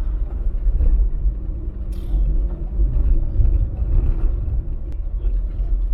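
Daewoo Damas microvan driving along, its engine and road noise a steady low rumble.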